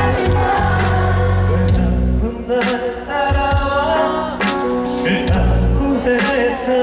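Live concert pop music played through a loud PA: a band with heavy bass and sung vocals.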